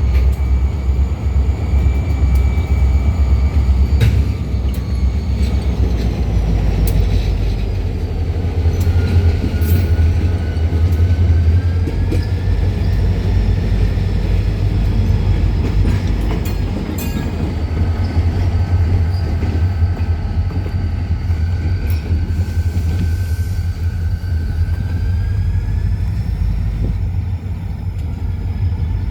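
Ferromex diesel locomotive running with a steady deep rumble. Over it sits a thin high whine that slowly drifts up and down in pitch.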